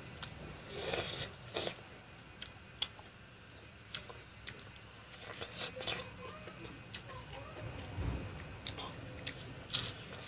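Close-up mukbang eating sounds: a person chewing rice and dry-fried frog, with short crunches and sharp mouth clicks at irregular moments.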